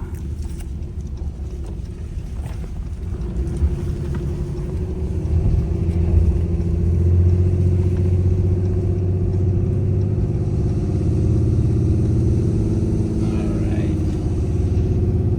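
Pickup truck engine and road noise heard from inside the cab while driving, a steady low drone that gets louder about five seconds in and then holds.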